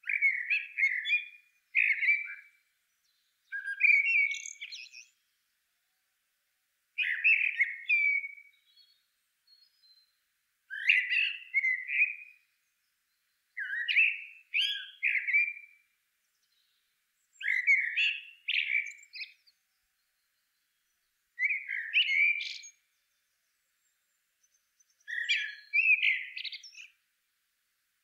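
A bird calling in short chirping phrases, each about a second long, repeated every three to four seconds.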